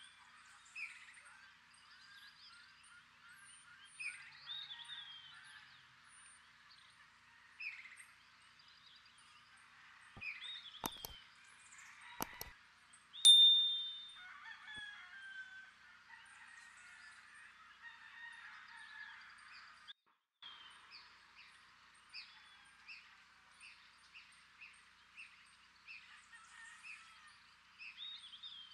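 Songbirds chirping and calling all through, with a few short clicks near the middle and one loud, high, piercing call about halfway through.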